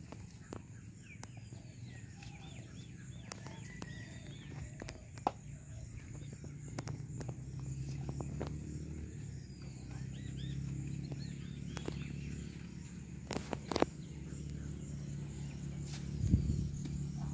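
Outdoor rural ambience: birds chirping over a low steady hum, with scattered clicks and knocks. The strongest knocks come in a short cluster a little past the middle.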